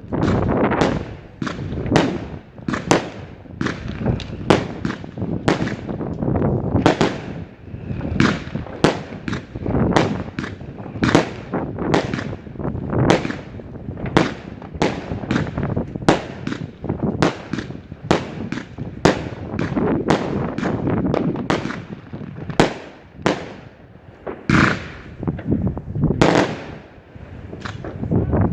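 Fireworks going off: an irregular, rapid run of sharp bangs, about two a second, over a continuous rumble of further detonations.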